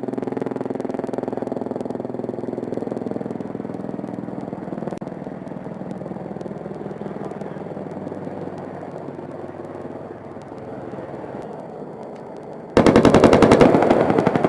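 Apache helicopter's engine and rotor running steadily, then about thirteen seconds in a sudden loud burst of rapid cannon fire, its 30 mm chain gun, lasting under two seconds.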